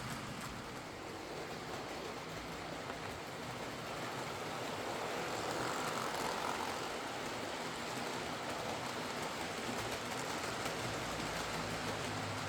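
Heljan Class 23 OO gauge model diesel locomotive running on track after a service, its electric motor and gear train whirring steadily with the wheels rumbling along the rails. The gearbox runs on 3D-printed replacement gears in place of split originals.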